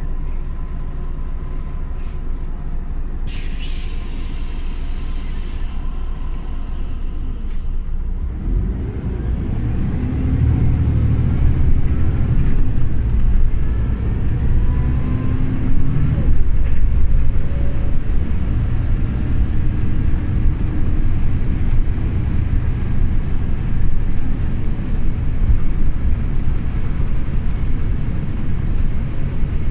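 Scania OmniLink city bus: a short hiss of released air about three seconds in, then the engine pulls harder as the bus moves off and speeds up, its pitch rising in steps as the gearbox shifts, before settling to a steady run.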